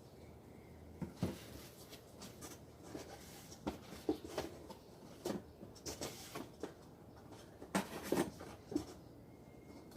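Irregular handling clicks and knocks, a dozen or so sharp taps at uneven spacing, the loudest about a second in and about eight seconds in.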